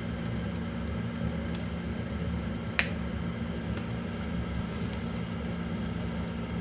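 Oak firewood burning in a wood stove, crackling with scattered faint pops and one sharp pop about three seconds in, over a steady low hum.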